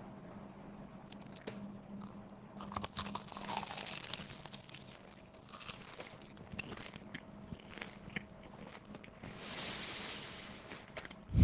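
A person biting and chewing crunchy food close to the microphone, with irregular crisp crunches and crackles that come thicker about three seconds in and again near the end.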